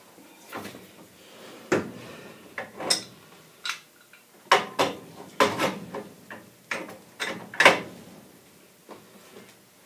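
Spud wrench clanking and clicking against a gas valve as the valve is worked loose from its pipe: a string of irregular metal knocks, the loudest a little before the end.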